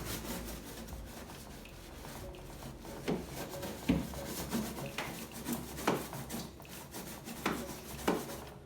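Hand scrubbing of a surface, a run of rubbing strokes that grow stronger and come about once a second from about three seconds in.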